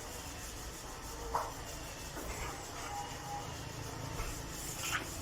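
Rubbing and scraping with a sharp click about a second in and another near the end.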